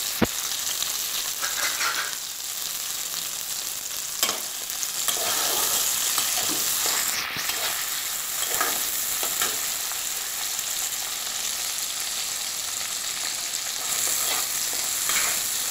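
Sliced onions, green chillies and tomato sizzling in hot oil in a kadai while a metal spatula stirs them, knocking sharply against the pan just after the start and again about four seconds in. This is the onion-tomato base being fried down (koshano).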